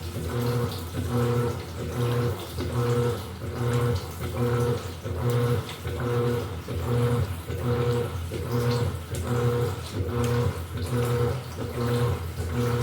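Electrolux LED14 14 kg top-loading washing machine agitating: the motor hums in regular strokes about once a second, swinging the agitator back and forth through sloshing water.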